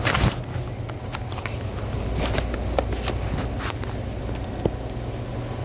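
Steady low machine hum with scattered clicks, knocks and rustling, and a brief rustle at the start.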